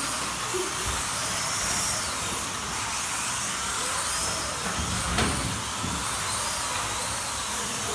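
Slot cars running on the track: a steady hiss of their small electric motors and braids on the rails, with faint whines that rise and fall as the cars speed up and slow down, and a sharp click about five seconds in.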